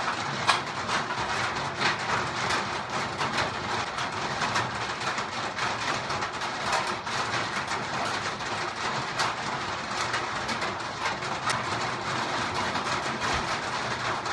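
Heavy rain falling: a steady, dense hiss with many sharp drop hits scattered through it.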